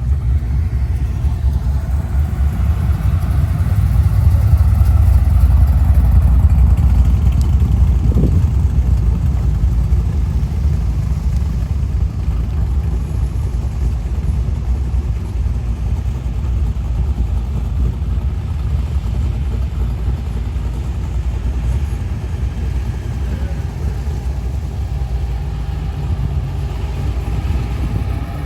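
Muscle car engine running with a deep, low rumble, growing louder about four seconds in and then slowly easing off.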